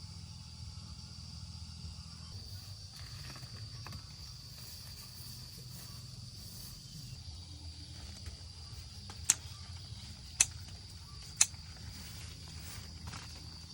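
Steady high-pitched insect chirring, with three sharp clicks about a second apart past the middle.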